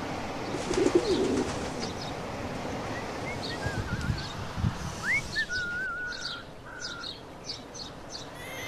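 Ambient birdsong: a pigeon cooing about a second in, then small birds chirping and warbling through the middle, over a steady wash of background noise.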